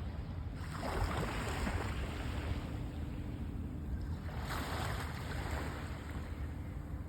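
Small sea waves washing up the beach, surging in twice, with wind rumbling on the microphone.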